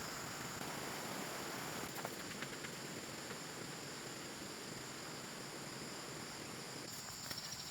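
Outdoor ambience with a steady, high-pitched chirring of insects over a soft hiss, with a few faint clicks about two seconds in and more near the end.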